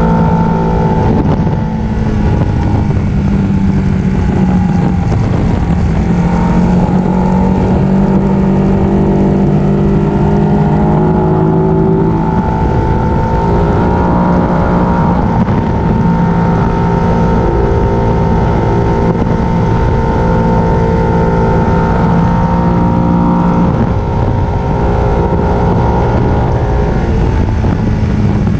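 Ducati 1299 Panigale's Superquadro L-twin engine running under way at cruising speed, heard from on board the bike. The engine note climbs for a few seconds about halfway through, then drops back, and shifts again near the end.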